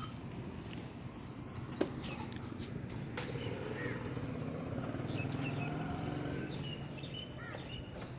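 Birds chirping in short, scattered calls over steady outdoor background noise, with a couple of sharp clicks.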